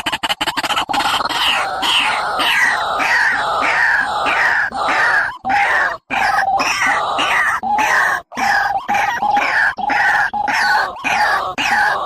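Bird calls repeated quickly, about two a second, each a short falling note, many paired with a brief steady lower note, with a couple of short breaks midway.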